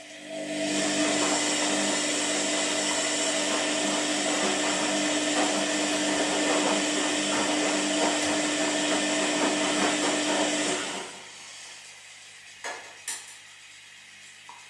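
Washing machine running: a loud steady whirring with a hum starts about half a second in, runs about ten seconds and stops, leaving a quieter steady drone with two short clicks.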